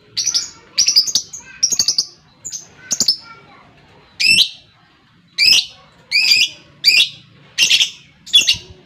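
Lovebird calling: a quick run of sharp, high-pitched chirps, then single shrill calls repeated about every 0.7 s.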